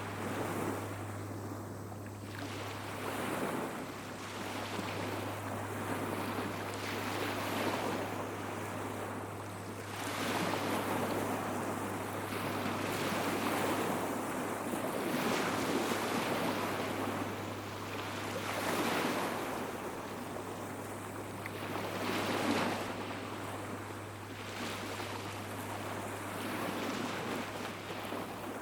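Small sea waves breaking and washing up on a beach, swelling and falling back about every two to three seconds. A steady low hum runs underneath.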